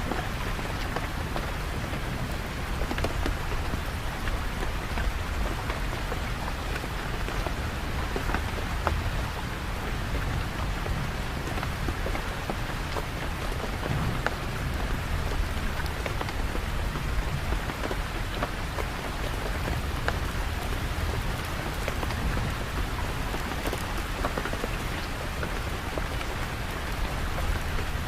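Steady rain falling, a constant hiss with scattered sharp drop ticks and a low rumble underneath.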